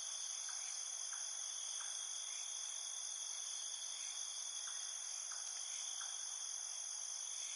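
Steady high-pitched insect chorus, with a few faint ticks scattered through it.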